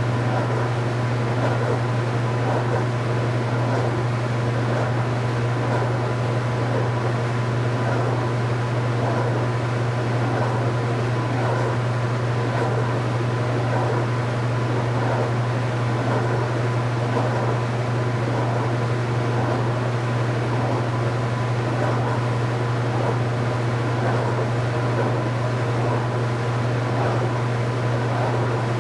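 2015 Speed Queen 8 Series top-load washing machine running with a steady low hum.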